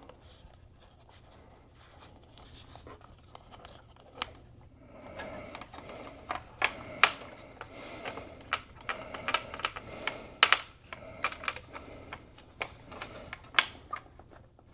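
Hands routing a SATA cable back through the inside of an opened iMac: scattered light clicks and taps with scratchy rustling of cable against plastic and metal, sparse at first and much busier from about five seconds in.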